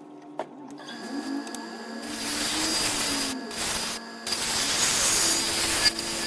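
Electric power tool working wood in stretches, with a steady motor hum under a noisy hiss that stops briefly twice.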